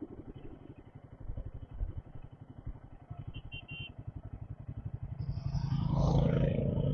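Motorcycle engine idling with a fast, even low pulse. From about five seconds in a louder vehicle sound swells up and is loudest near the end.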